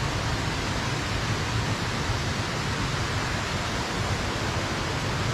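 Steady rushing of a small hill stream's running water.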